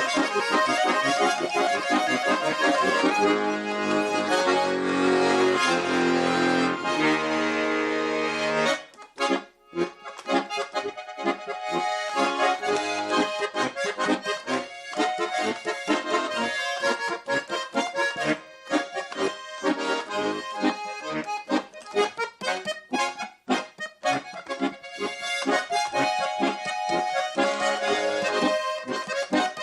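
Russian garmon (button accordion) playing a lively folk tune: sustained chords over bass notes for the first several seconds, then, about eight and a half seconds in, a brisk run of short, choppy notes.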